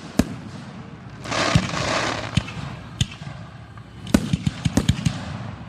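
Fireworks display: separate shell bangs, a burst of hiss about a second in, then a rapid string of sharp cracks about four seconds in.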